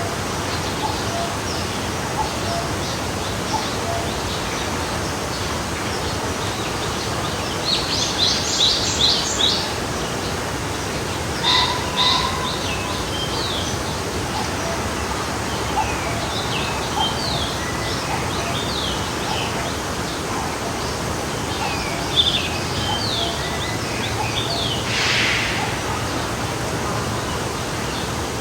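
Forest stream flowing steadily, with songbirds chirping over it: a quick run of about six falling chirps about eight seconds in, and scattered short chirps through the rest.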